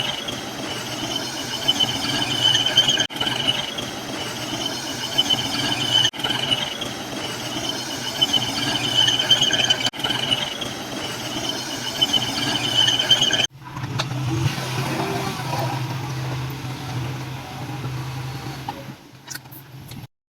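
Komatsu crawler bulldozer working: a steady high squeal from its steel tracks over the rumble of the diesel engine, in several short back-to-back cuts. About two-thirds of the way through, the squeal drops out and the engine rumble alone carries on.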